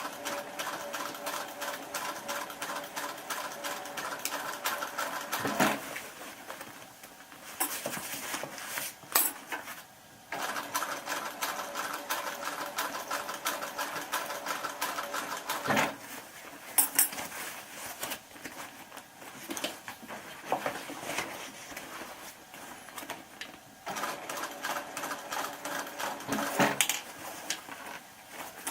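Electric sewing machine stitching a zigzag seam around a patch on a wetsuit, its motor humming under a fast, even needle clatter. It runs in three spells of several seconds, with pauses and a few sharp clicks between them.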